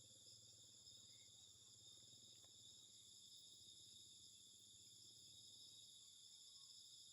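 Faint, steady chorus of crickets chirring, several high shrill tones held without a break.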